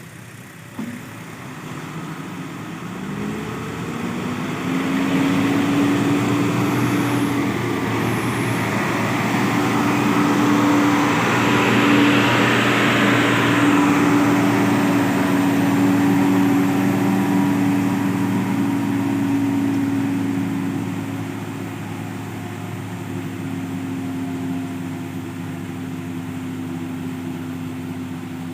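Nissan Condor container truck's diesel engine labouring up a steep climb, its pitch rising in the first few seconds, then running steadily and loudest about halfway through before easing off.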